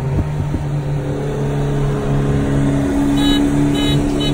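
Turbocharged Mitsubishi Lancer Evolution X four-cylinder engines pulling hard side by side at speed in a roll race, the engine note climbing steadily in pitch. Three short high beeps sound about three seconds in.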